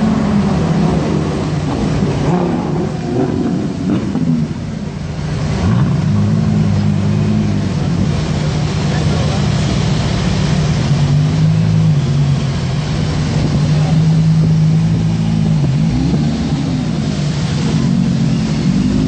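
Engine of a Lamborghini-style sports car running at low revs while the car moves slowly, with a few short throttle blips that rise and fall in pitch, one about sixteen seconds in. Onlookers' voices underneath.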